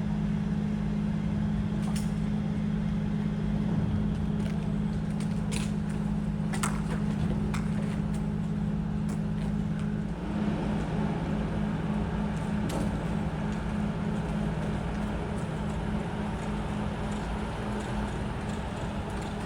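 Steady low engine drone of the ferry Kurushima's diesel machinery, with a few light clicks in the first half. About halfway through, the hum starts to pulse.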